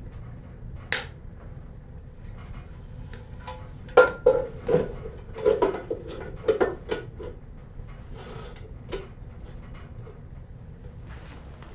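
Pots, pans and utensils clinking and knocking: a single sharp click about a second in, then a cluster of clattering knocks with a short ring about four to seven seconds in, over a steady low rumble.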